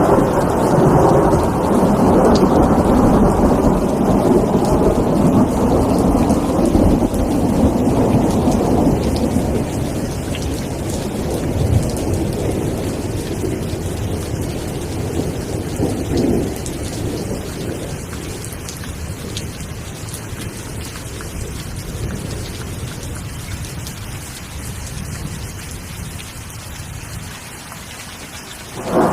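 Steady rain with a long roll of thunder that dies away over the first ten seconds or so. Two short rumbles follow, and a new clap of thunder breaks right at the end.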